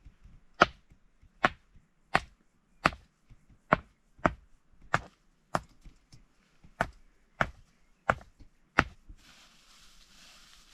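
Wood being chopped: about a dozen sharp blows at a steady pace of a little more than one a second, stopping shortly before the end.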